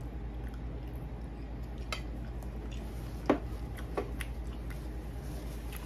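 A person chewing a mouthful of meatball, with a few short clicks, the sharpest a little past three seconds in, over a steady low hum.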